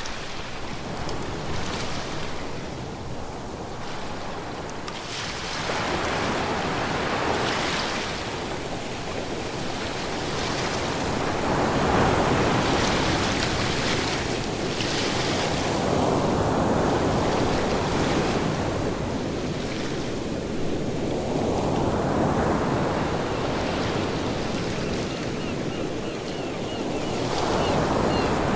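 Ocean surf: waves breaking and washing in, the rush of water swelling and ebbing every several seconds.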